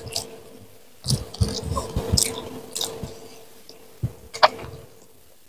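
Close-miked mukbang chewing: wet chewing and crunching of food eaten by hand, with a run of sharp crunches and clicks between about one and three seconds in and another single crunch just after four seconds.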